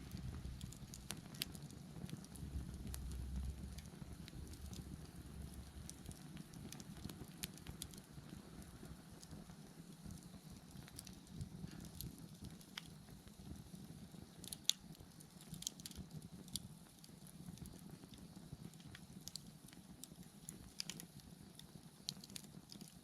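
Wood bonfire burning, with a low steady rush and irregular crackles and pops. The sharpest pop comes about two-thirds of the way through.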